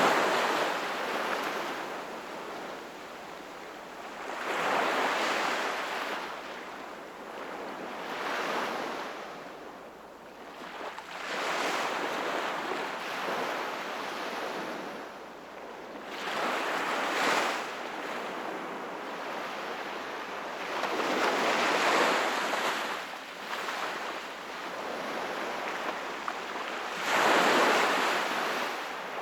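Sea waves breaking and washing onto the shore in about seven swells, one every four to five seconds, the loudest right at the start and near the end.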